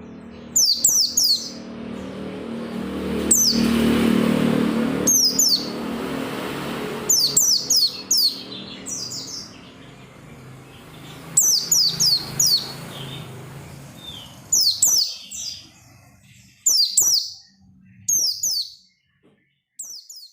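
White-eye (pleci) singing: quick clusters of sharp, high, downward-sweeping chirps, repeated every second or so, over faint background noise and hum. The song stops near the end.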